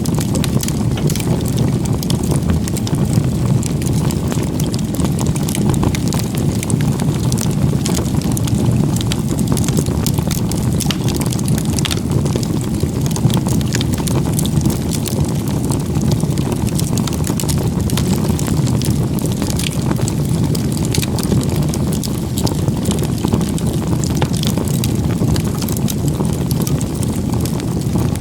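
Campfire burning: a steady low rumble of flame with scattered sharp crackles and pops.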